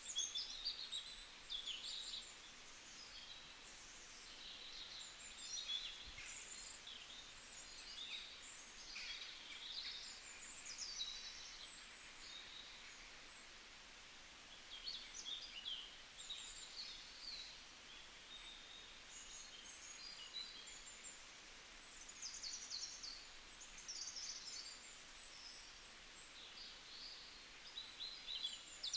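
Several small songbirds chirping and twittering in short, quick high notes over a faint steady hiss, busiest near the start and the end.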